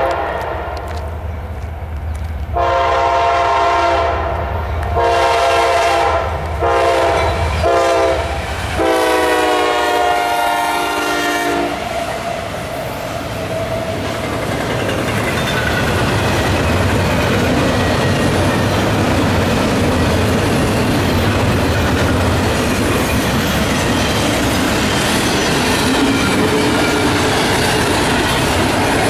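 CSX freight locomotive air horn sounding several blasts over the rumble of a passing freight train, two long, a short, then one long blast that dips slightly in pitch at its end. Then steady rumble and clickety-clack of freight cars, double-stack intermodal well cars among them, rolling past.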